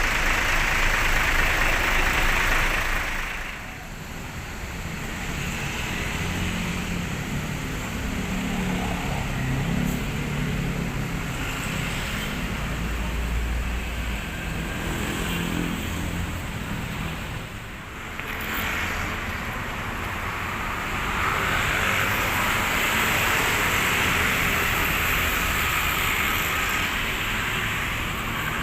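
Busy road traffic, vehicles passing one after another. The loudest swells come at the start and again over the last third, with an engine humming low through the middle stretch.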